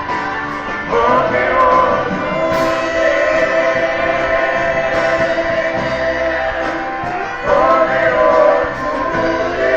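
Gospel music: several voices singing together in long held notes over instrumental backing, with louder vocal entries about a second in and again near the end.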